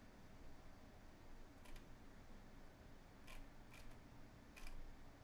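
Computer mouse button clicking four times, the first a quick double click, over faint room hum.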